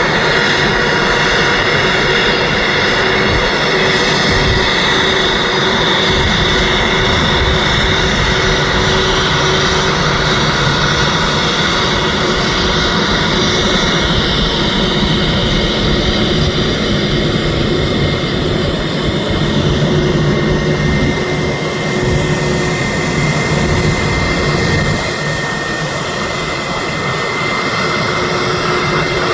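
Airbus A321's twin jet engines running at taxi power as the airliner taxis, a steady whine with several held tones over a broad rumble. It eases slightly in the last few seconds.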